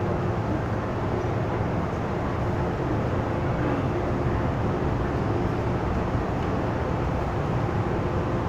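Steady hum and rumble of an MTR M-Train electric multiple unit standing at the platform with its doors open, its auxiliary equipment running, with a faint steady tone through it.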